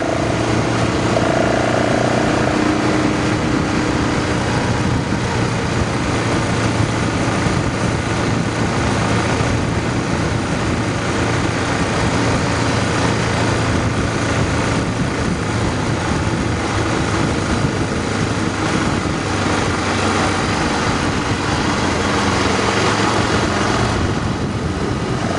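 Motorcycle riding along at a steady pace: a low engine hum under a constant rushing noise.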